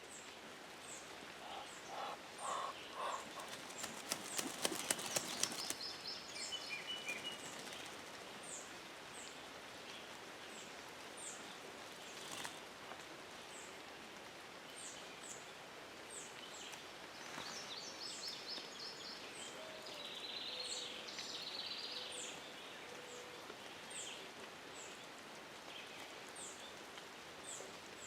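Steady hiss of rain falling, with a small bird's short high chirps repeating about once a second. A brief run of clicks comes about four seconds in.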